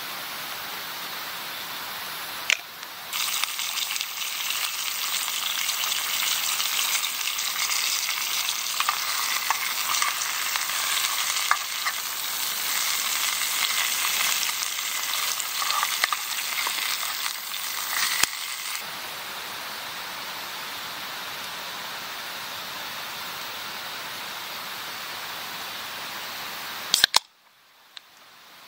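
Food sizzling and crackling in a pan over a fire, louder for a stretch of about fifteen seconds with scattered sharp pops, against a steady background hiss; a couple of clicks and a sudden short drop near the end.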